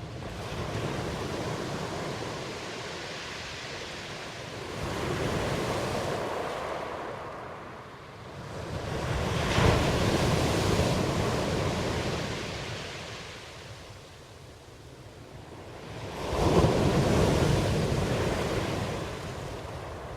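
Ocean waves washing in and drawing back in slow surges every few seconds. The two biggest swells come about halfway through and near the end.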